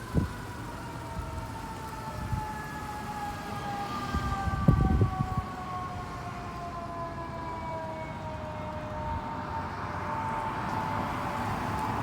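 Distant fire engine siren wailing, its pitch falling slowly and steadily throughout, over low street traffic rumble. A few low thumps come about four to five seconds in.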